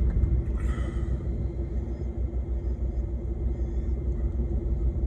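Steady low rumble of a semi truck's diesel engine running.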